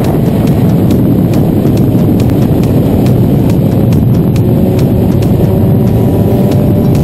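Motorcycle riding at speed, with heavy wind rush on the microphone and a faint engine note underneath.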